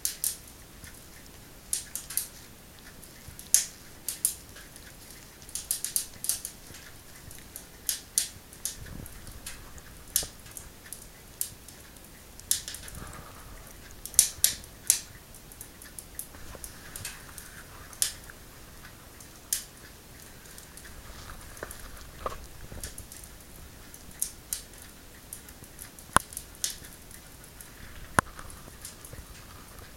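Cat licking its paw and washing its face close to the microphone: short, sharp licking clicks that come irregularly, about once or twice a second, sometimes in quick clusters.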